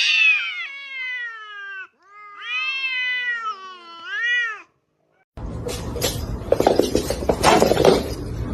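Domestic cat meowing: two long, drawn-out meows, the first falling in pitch, the second rising and falling and ending in a short upturned call. About five seconds in, after a brief silence, a stretch of noisy rustling with clicks begins.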